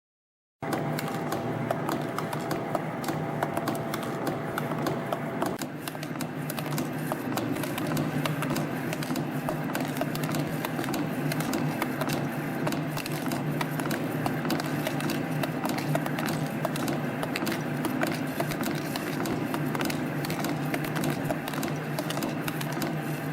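CNC spring-coiling machine running: wire feeding and coiling springs with a fast, continuous clatter of ticks over a steady hum, starting abruptly. A thin steady whine sounds for the first few seconds and stops.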